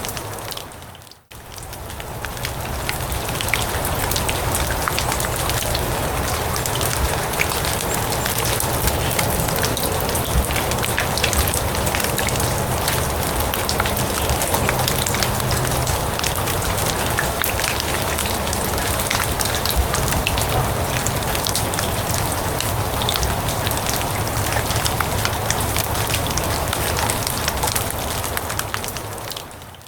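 Steady rain falling on grass and leaves, a dense patter of many small drops. It fades almost to nothing about a second in, swells back up over the next two seconds, and fades down again near the end.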